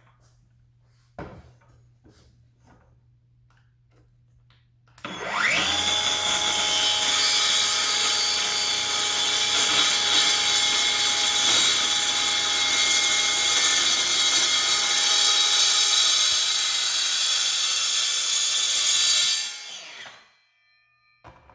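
After a few faint clicks, a Skil PWRCore 20V brushless cordless power tool starts about five seconds in, its whine rising quickly to speed. It runs steadily with a high whine and a dense hiss for about fourteen seconds, then winds down and stops.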